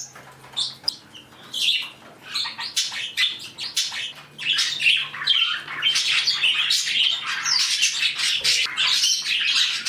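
A flock of pet budgies and other small cage birds chattering, chirping and squawking together. It starts as scattered calls and becomes a dense, continuous chatter after about three seconds.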